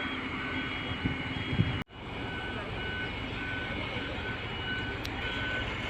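A heavy truck's reversing alarm beeping steadily, about two to three beeps a second, over a running truck engine. After a brief break just before two seconds in, the beeps continue at a lower pitch.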